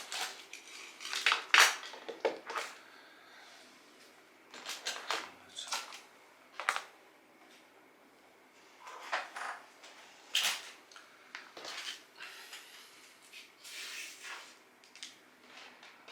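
Irregular rustling, light knocks and clatter of objects being handled and moved, a dozen or so short bursts with quiet room tone between them.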